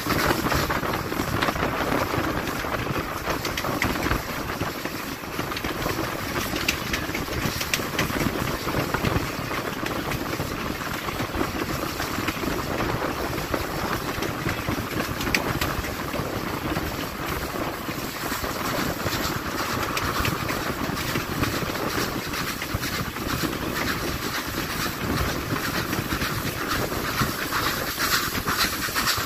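Steam train running on the rails: a steady, even rush of wheel and rail noise thick with fine clicking, which keeps on without a break.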